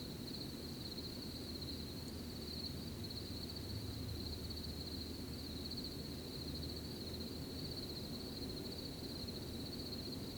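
Crickets chirping in a continuous high, finely pulsing trill over a low, steady hiss of rustling night air.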